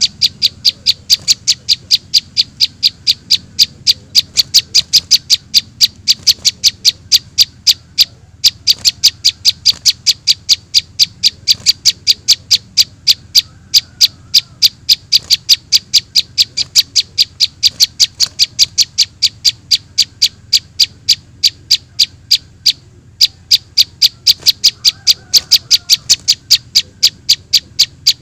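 Juvenile prinia (prenjak) calls used as a bird-trapping lure: short, high, sharp chirps repeated rapidly and evenly, about four to five a second, with brief breaks twice.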